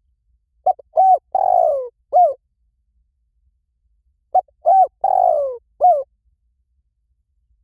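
Spotted dove cooing: two calls, each a few short coos and one longer falling coo, the second starting about four seconds in.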